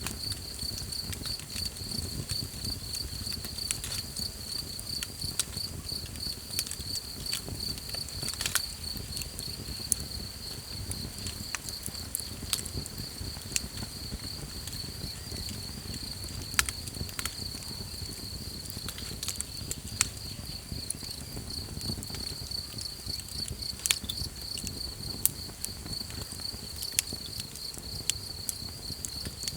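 Campfire crackling, with sharp pops at irregular intervals, over a continuous high, fast-pulsing insect trill and a low rumble.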